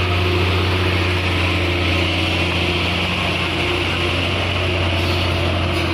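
Heavy diesel truck engine running steadily, a constant low drone with no change in pitch.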